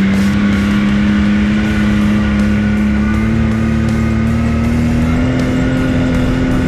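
Off-road vehicle engine running steadily under way, its pitch creeping slowly higher as it gains speed.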